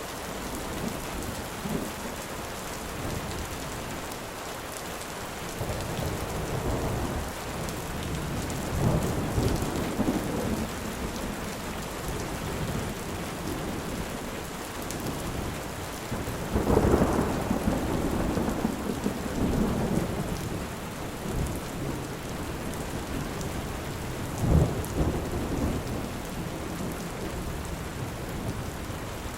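Heavy rain falling steadily, with thunder rumbling several times: a long roll about 17 seconds in that fades over a few seconds, and a sharper clap near 25 seconds.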